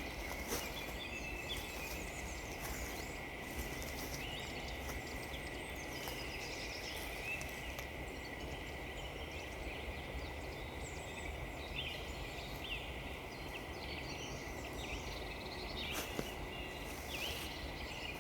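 Small woodland birds chirping and calling in short notes over a steady outdoor hiss, with a few footsteps crunching on frozen ground near the start and again near the end.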